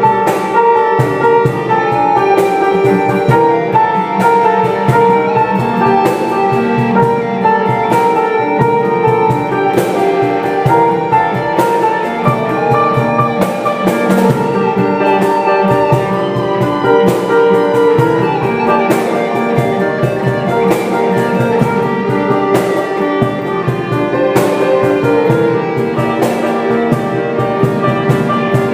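Instrumental band passage with no vocals: guitar and drum kit playing a steady beat under sustained chords.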